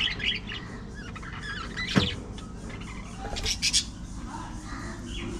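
Pet budgerigars chirping and chattering in short, high calls, with a sharp click about two seconds in and a pair of scratchy bursts a little later.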